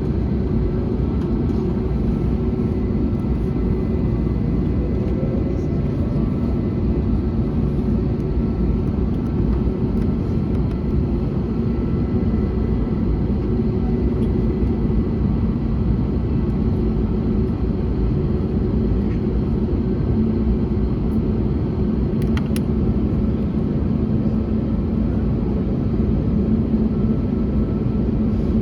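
Steady cabin drone of an Airbus A321neo in flight, from its Pratt & Whitney PW1100G geared turbofan engines and the airflow, with a low hum throughout.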